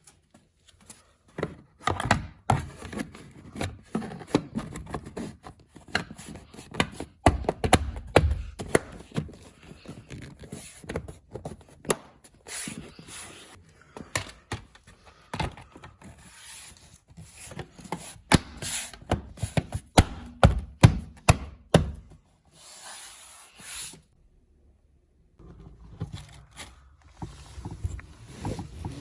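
Car interior trim pieces being handled and fitted back into place: irregular knocks, taps and rubbing, with a brief break about three-quarters of the way through.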